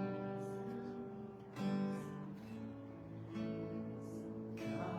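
Acoustic guitar strumming slow chords that ring on between strums.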